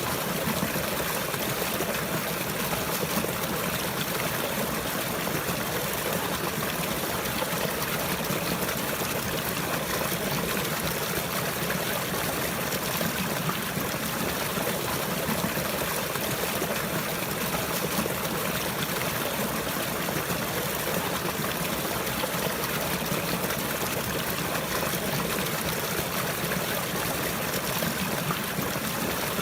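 Running water flowing steadily, like a trickling stream, with no change in level.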